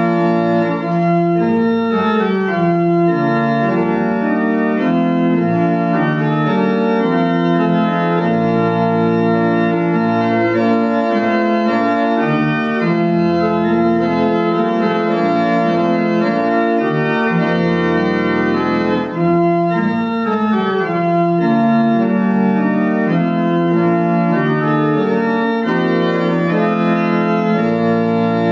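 Organ music: sustained chords moving steadily from one to the next over long-held bass notes.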